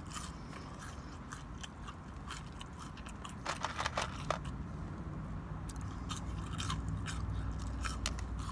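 A person chewing and biting crunchy fried food close to the microphone, with a cluster of louder crunches about three and a half to four seconds in, over a low steady hum.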